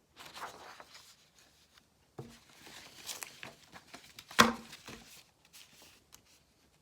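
Paper sheets rustling as they are handled, with scattered light taps and one sharper knock about four seconds in.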